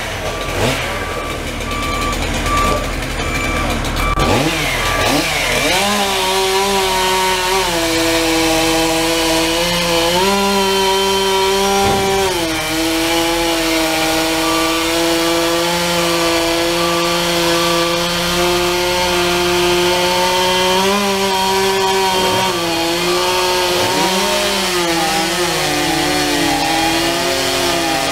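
Chainsaw running at high speed, cutting into the trunk of a storm-felled tree, its pitch holding steady with brief dips and recoveries as the chain bites. A deeper engine rumble sits under it in the first few seconds.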